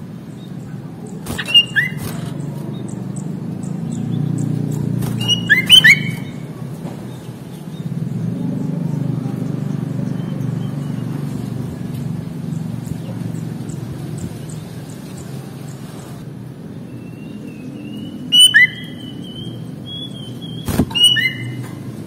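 Sooty-headed bulbul (kutilang) calling in four short, loud phrases of quick chirped notes, with a thin wavering whistle between the last two. A steady low rumble runs underneath.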